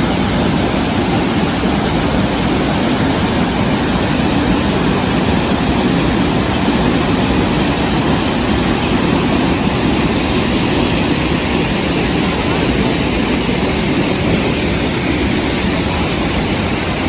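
Waterfall and fast-flowing river water making a steady, loud rush of noise that cuts off suddenly at the very end.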